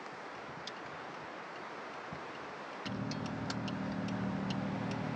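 Faint hiss, then about three seconds in a steady motor hum starts, with a light ticking two or three times a second.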